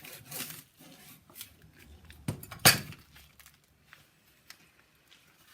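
Rustling and knocking from vegetables being handled during preparation, with two sharp knocks about two and a half seconds in, the second the loudest.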